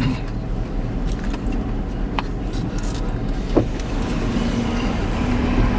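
Steady low hum of a parked car's idling engine and air conditioning heard inside the cabin, with a couple of brief clicks partway through.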